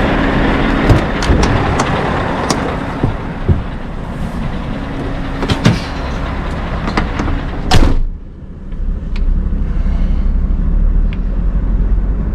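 Scania R580 truck's V8 diesel idling, with scattered clicks and knocks, then a door slam about eight seconds in, after which the engine is heard muffled as a low hum.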